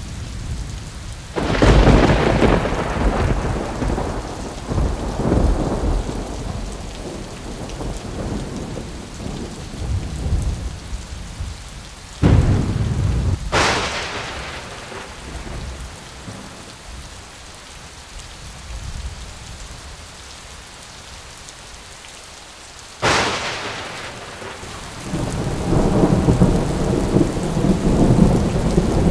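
Thunderstorm with steady rain throughout. A thunderclap comes about a second and a half in and rolls off slowly. A sharp crack of close thunder follows a little before halfway, then another clap a little over two-thirds through, and a long rolling rumble builds near the end.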